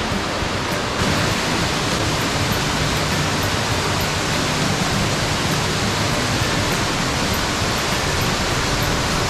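Steady rush of water from Tangle Creek Falls, a multi-tiered roadside waterfall, growing a little louder and brighter about a second in.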